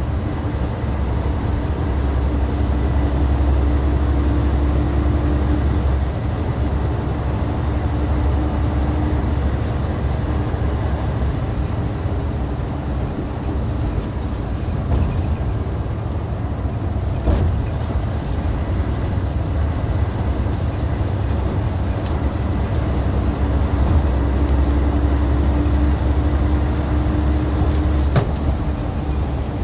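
Hyundai D6CC Powertec 380 straight-six diesel of a Hyundai Universe Comfort coach running with a steady low drone. It grows louder twice: a few seconds in and again near the end.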